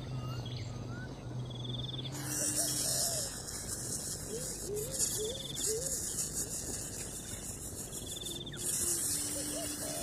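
Insects droning in a high-pitched band, starting about two seconds in and breaking off briefly near the end, over scattered bird chirps and short rising call notes.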